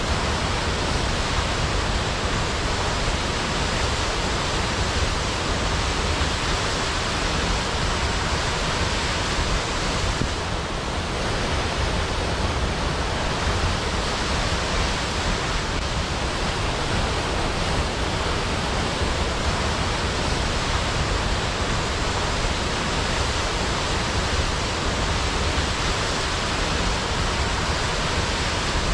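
Waterfall rushing, a steady unbroken hiss of falling water.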